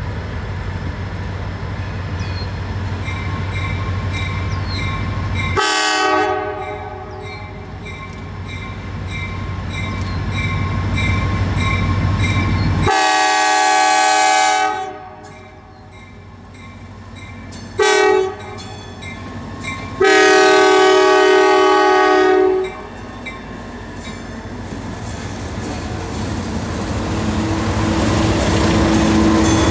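Multi-chime air horn of an EMD diesel locomotive sounding four blasts, the third short and the last the longest, in the pattern of a grade-crossing signal, over the steady rumble of the approaching train, which grows louder near the end.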